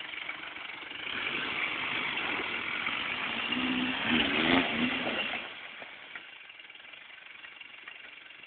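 Toyota Land Cruiser FJ40 engine revving under load on a hill climb. It grows louder about a second in, peaks with a wavering pitch around the middle, then falls away to a faint running sound after about five and a half seconds.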